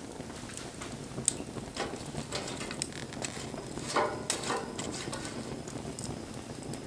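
Wood fire crackling, with irregular sharp pops over a soft hiss and a louder burst of crackles about four seconds in.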